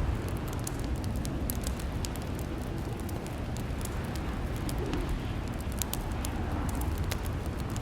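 Wood fire crackling in a fireplace: frequent small sharp snaps and pops at irregular intervals over a steady low rumble.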